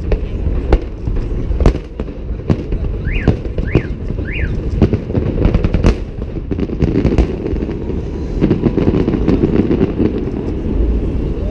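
Holiday fireworks salute going off: an irregular string of sharp bangs, roughly one or two a second, over a dense low rumble. Three short rising-and-falling whistles come about three to four and a half seconds in.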